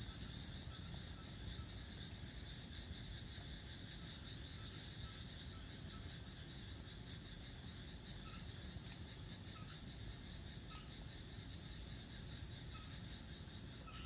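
Small wood fire burning in a compact secondary-combustion fire pit, giving a few faint sharp crackles over a low steady hiss. A steady high-pitched drone, like insects, and occasional small chirps run underneath.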